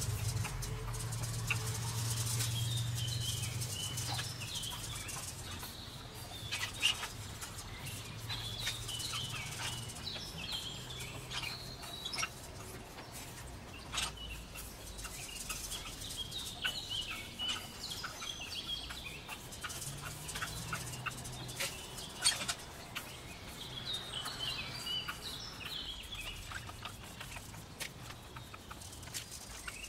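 Small birds chirping in recurring bursts, with scattered scrapes and taps of a small trowel working sand-cement mortar onto a sand mould. A low hum runs underneath, strongest in the first few seconds.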